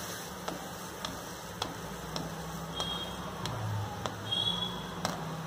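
Buttered sandwich sizzling softly on a hot nonstick tawa over a gas flame, with a steady tick about twice a second and a low hum underneath.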